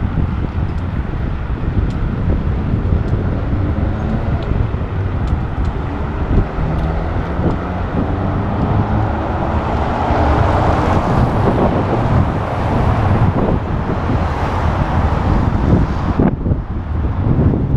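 Wind rumbling over the microphone of a moving bicycle, with city road traffic running alongside. A louder, brighter hiss of a passing vehicle from about ten to sixteen seconds in.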